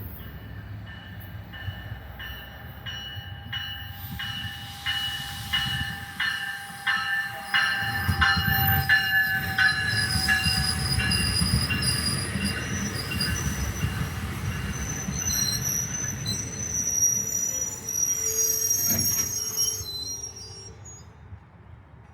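NJ Transit commuter train passing through a station with a steady rumble. Its wheels click in an even rhythm and squeal in high tones on the rail, and the sound fades away near the end.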